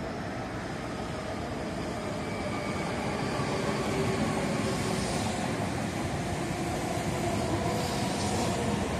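Meitetsu electric commuter train running past on the tracks below, its running noise and motor hum steadily growing louder, with a hiss of wheels on rail swelling twice in the second half.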